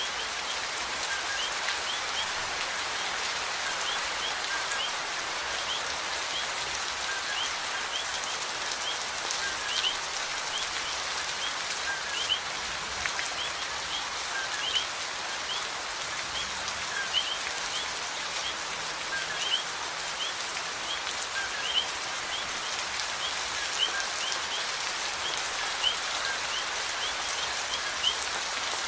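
Steady rain falling, with short high chirps scattered throughout. From about ten seconds in, a sharper tap or drip lands at a regular beat of roughly one every two and a half seconds.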